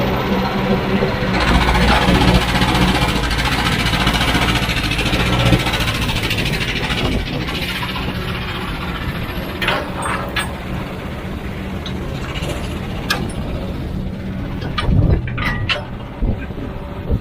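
Heavy diesel machinery running steadily, then rougher working noise with scattered sharp knocks and clanks in the second half.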